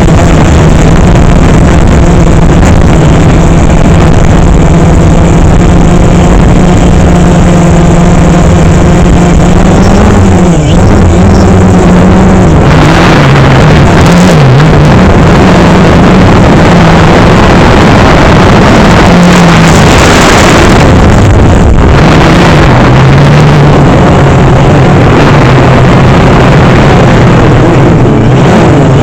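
DJI Phantom 3 quadcopter's motors and propellers humming loudly. The pitch holds steady at first, then wavers up and down from about ten seconds in as the motor speeds change. Rushing noise surges twice in the middle, wind buffeting the microphone.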